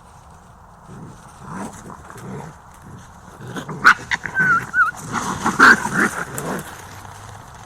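Close-up animal sounds: a run of short, irregular vocal noises and sharp clicks, with a brief wavering high-pitched squeal in the middle.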